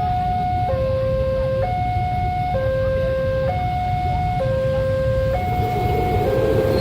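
Railway level crossing warning alarm sounding, a steady electronic two-tone signal alternating between a higher and a lower pitch about once a second, warning that a train is approaching. Engines idle in a low rumble underneath.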